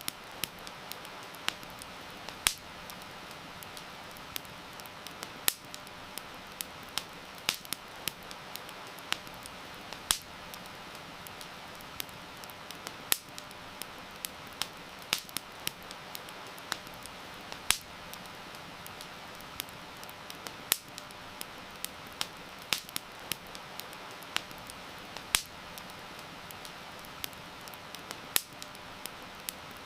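Wood campfire crackling, with irregular sharp pops several times a second over a steady hiss of heavy rain.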